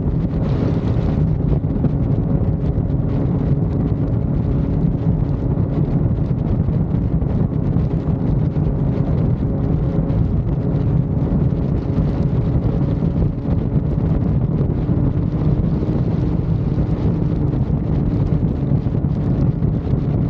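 Motorcycle running at highway speed: a steady engine drone under constant wind rush buffeting the microphone.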